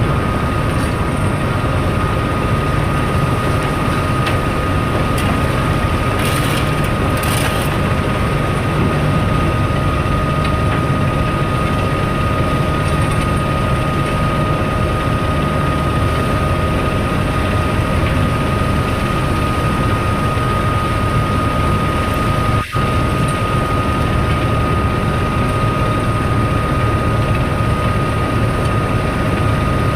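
Heavy machinery running steadily with a deep rumble and a constant high whine over it. The sound drops out for an instant about twenty-three seconds in.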